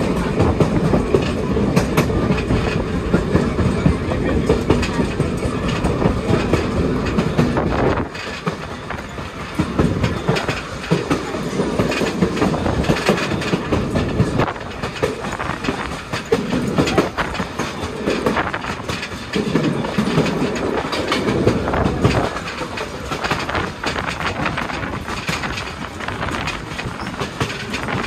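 Railroad passenger cars rolling along the track, heard from the rear of the train: a dense rumble of wheels on rail with repeated clickety-clack clicks. The low rumble drops suddenly about eight seconds in, then swells up and down.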